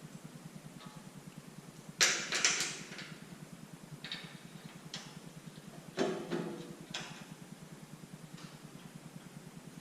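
Several sharp clatters and knocks, two of them loud (about two seconds in and about six seconds in) and a few fainter ones between, over a steady low hum with a fast, even pulse.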